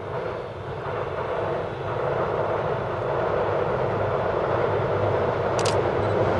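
EF210 electric freight locomotive hauling an unpowered Seibu 30000 series train set, approaching: a steady rumble that grows louder, with a brief sharp clicking near the end.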